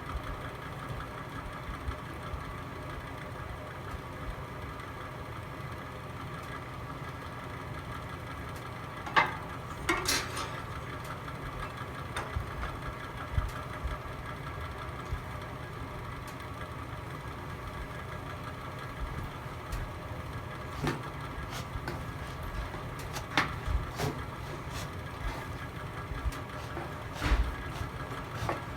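Log fire burning in a fireplace: a steady low rumble with scattered crackles and pops, the sharpest about nine and ten seconds in and again near the end.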